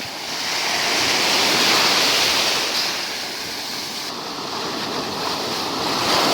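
Sea waves breaking on the shore in a steady wash of surf, swelling about a second in and again near the end.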